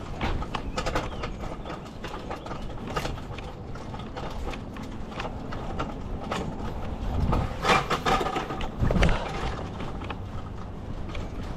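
Irregular knocks, clicks and rattles over a low rumble, with a cluster of louder knocks about seven to nine seconds in.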